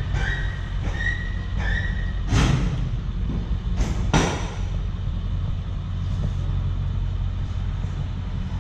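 A vehicle engine idling steadily with a low rumble, with two short hissing bursts about two and a half and four seconds in.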